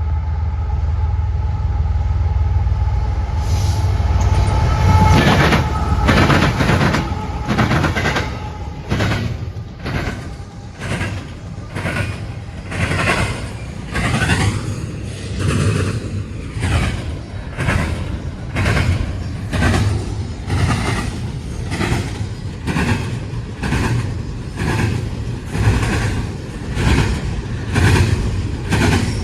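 Train passing close by: a heavy low rumble for the first few seconds, then the wheels of the passing cars clicking over rail joints in a steady rhythm, roughly one click a second.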